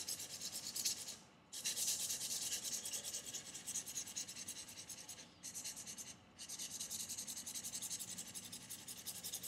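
Knife blade stroked back and forth on fine 1000-grit sandpaper laid over a leather strop, a rapid scratchy rubbing that is convexing and sharpening the edge. It pauses briefly about a second in and twice around the middle.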